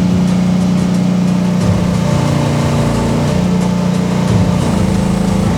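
Engine of a Rippa R10 gas mini excavator running steadily at working speed, its note dipping and shifting a couple of times as the hydraulics are worked during a lift.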